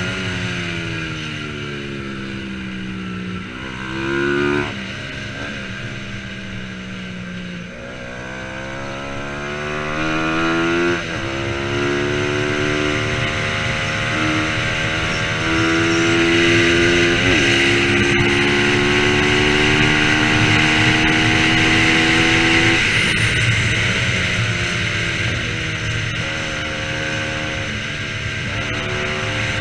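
Bajaj Pulsar 200 NS single-cylinder engine at race pace. Its pitch falls as the bike slows, with sharp jumps at about 4 and 11 seconds. It is then held high and fairly steady for a long stretch, drops at about 23 seconds and climbs again near the end.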